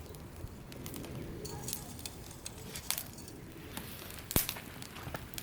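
Wood fire crackling, with irregular sharp pops and one loud snap about four seconds in.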